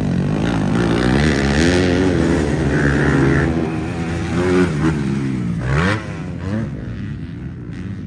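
Motocross bike engine revving up and down on the track, its pitch rising and falling with the throttle. About six seconds in it rises sharply, then drops away and gets quieter.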